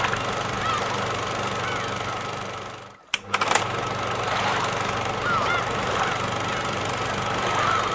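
Heavy thunderstorm rain and wind, a steady loud hiss over a low steady hum, with faint short chirping tones in it. The sound fades out about three seconds in and comes back after a few sharp clicks.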